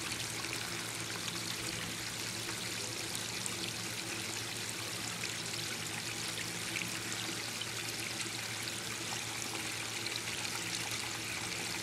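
Backyard pondless waterfall: water flowing steadily over and around rocks, splashing and trickling.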